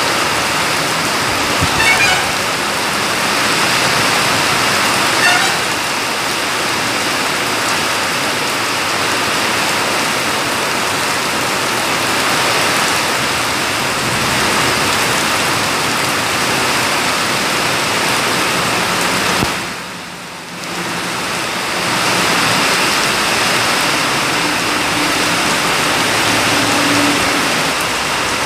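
Heavy rain pouring steadily, mixed with the noise of a lorry and buses passing on the wet road. The sound dips for about two seconds roughly two-thirds of the way through.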